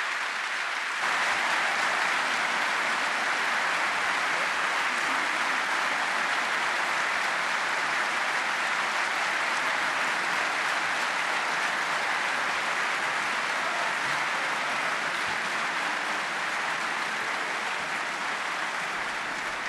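Audience applauding steadily after a speech. The applause swells about a second in and eases slightly near the end.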